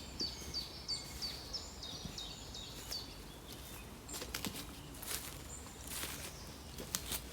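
A small songbird repeats a short high note about three times a second for the first three seconds, over a low steady outdoor rumble. A few brief rustling noises follow in the later seconds.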